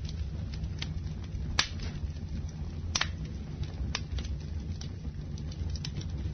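Campfire burning: a low steady rumble of flames with sharp crackles and pops from the burning wood, about one a second, the loudest about a second and a half in.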